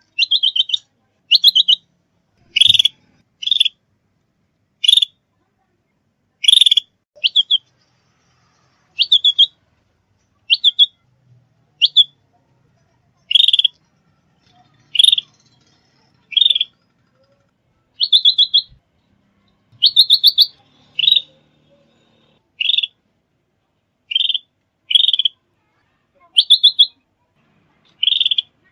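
Songbird calls, each a short, high chirp made of a quick cluster of notes, repeated about once a second with clean silence between them.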